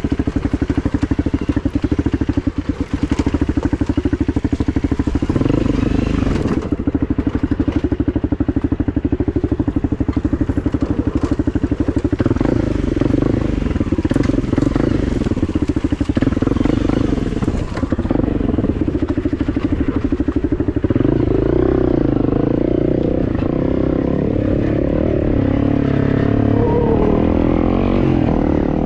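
Enduro dirt bike engine running while riding, its pitch rising and falling as the throttle opens and closes, with now and then a light clatter.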